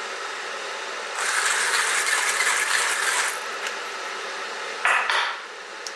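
A 1Zpresso J-Max hand burr grinder rattles and crunches with coffee beans for about two seconds, then gives a brief clatter near the end. Under it runs the steady hiss of an electric kettle heating water.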